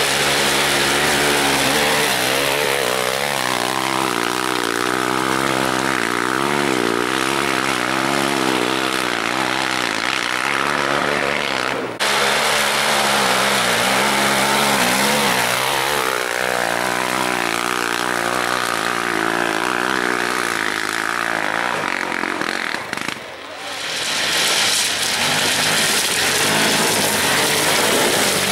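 Off-road vehicle engines revving up and down as they climb a slope of loose rock. The sound breaks off abruptly twice, about twelve and twenty-three seconds in.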